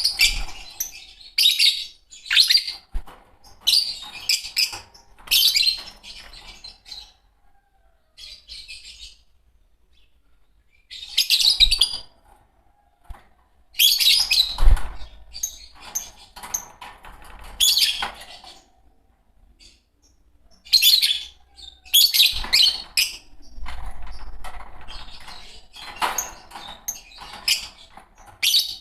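A pair of green Fischer's lovebirds chirping, in bursts of rapid, high, shrill chirps with short pauses between them, and a lull of a few seconds near the middle.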